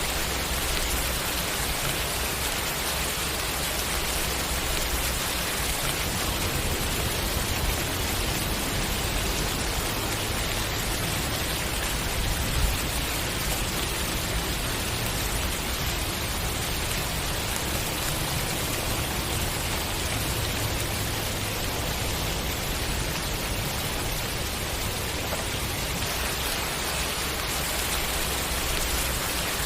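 Steady rain falling, an even hiss of drops on surfaces, with a single slightly louder drop or tap about halfway through.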